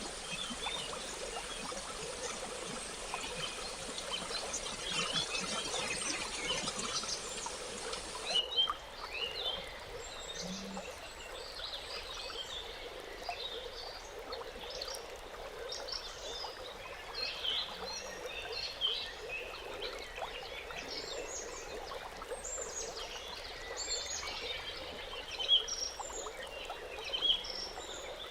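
Natural outdoor ambience: many short chirping animal calls scattered over a steady rushing, water-like noise. About eight seconds in the sound changes abruptly as a high hiss drops away, leaving the chirps more distinct.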